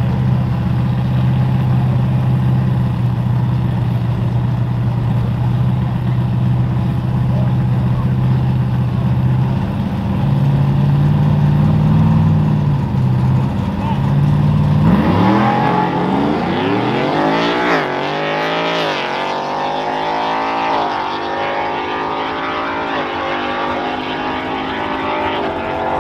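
An engine running at a steady pitch, then revved up and down over and over from about fifteen seconds in.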